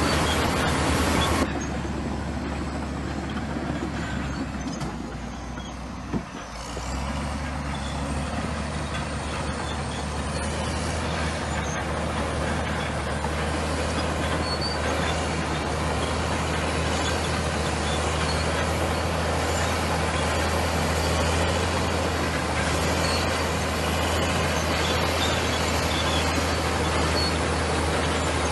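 Komatsu bulldozer's diesel engine running steadily. The level drops suddenly about a second and a half in, there is a single short knock around six seconds, and then the engine settles back into steady running.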